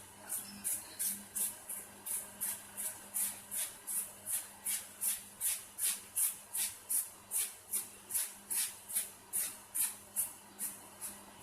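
Hand trigger spray bottle pumped over and over, a quick hiss of mist about two to three times a second, stopping near the end.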